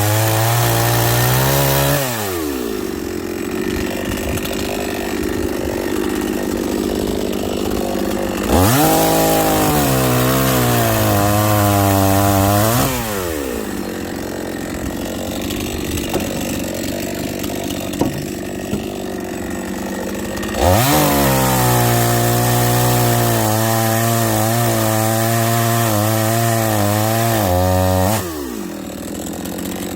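Chainsaw cutting firewood logs: it runs at high revs three times, its pitch wavering as the chain works through the wood. Each time it winds down with a falling pitch and settles back to idle between cuts.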